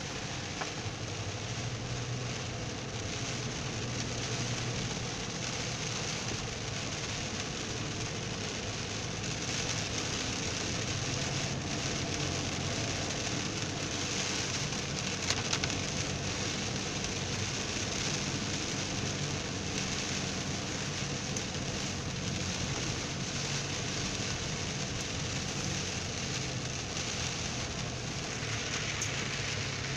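Heavy rain pattering on a car's roof and windshield, heard from inside the cabin, over a steady low hum from the car as it drives on the wet road.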